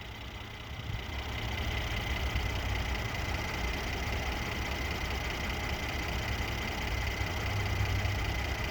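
Mercedes-AMG 3.0-litre twin-turbocharged V6 idling steadily with the hood open: a low rumble with a thin steady whine above it, growing a little louder about a second in.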